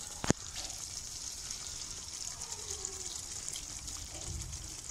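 Masala chicken curry sizzling steadily in the karahi as it keeps cooking, oil hissing through the thick gravy. One sharp click about a third of a second in.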